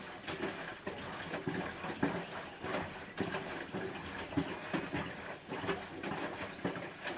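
Bosch WAN28220FF front-loading washing machine in the wash phase of a synthetics 40 °C cycle, its drum turning and the laundry sloshing and splashing in the water in uneven surges.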